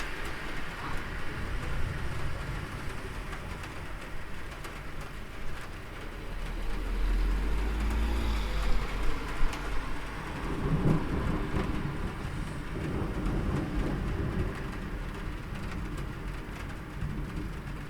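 Steady rain with thunder: a low rumble rolls in about six seconds in and carries on for several seconds before fading back under the rain.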